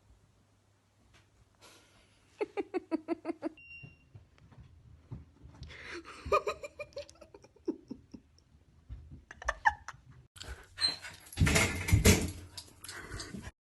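A dog vocalising: a quick run of about a dozen short yelps, then whining cries that bend in pitch, more short calls, and a loud noisy stretch near the end.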